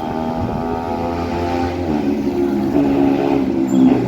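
Bajaj Pulsar NS200 motorcycle engine running through its modified exhaust, revved up and held at a higher pitch from about two seconds in.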